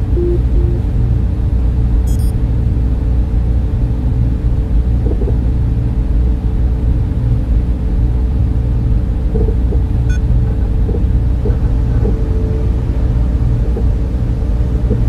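Server room cooling fans running in a steady, unbroken whir, with a heavy low rumble underneath and a constant hum.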